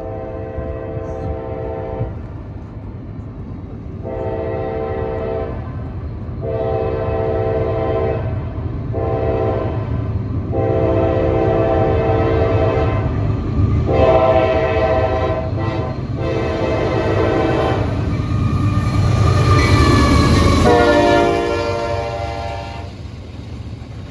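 CSX diesel locomotive's air horn sounding a series of long and short blasts, the crossing signal, as a fast intermodal train approaches, over a low rumble of engine and wheels that keeps building. About twenty seconds in the locomotive passes at its loudest and the horn's pitch drops, then one last blast sounds lower as it pulls away.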